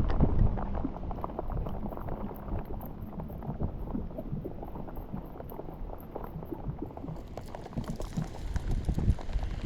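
Irregular watery patter and small splashes around a fishing boat, with a burst of wind on the microphone at the very start.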